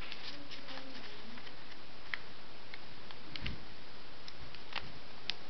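Sheet of paper being folded and creased by hand: scattered, irregular light ticks and crinkles over a steady background hiss.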